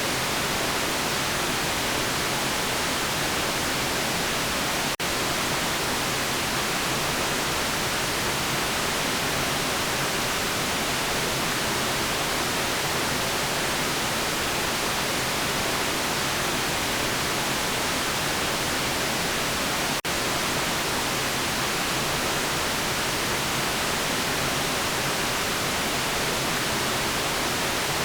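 Steady generated white noise, an even hiss strongest in the high range, with two momentary dropouts about five and twenty seconds in.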